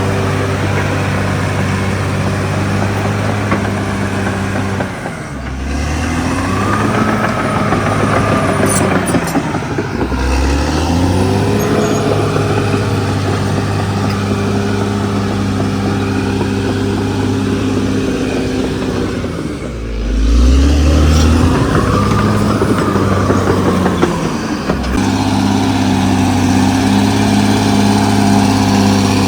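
CAT D6R XL bulldozer's diesel engine running hard, its pitch sagging and climbing back again four times as it is loaded and throttled while pushing earth.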